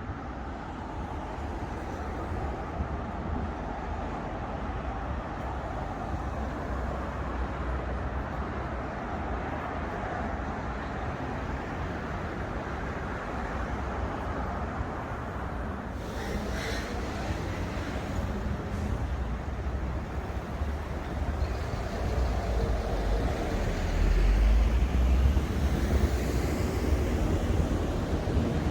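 City street traffic: a steady hum of passing cars, with a heavier low rumble swelling near the end as a larger vehicle goes by.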